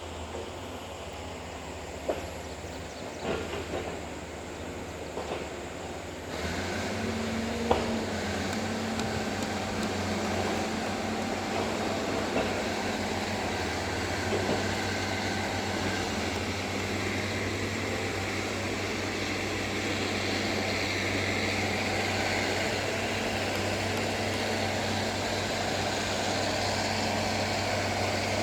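Bulldozer diesel engine running, with scattered metallic knocks and clanks. About six seconds in the sound jumps louder to a steady engine drone, with one sharp clank shortly after.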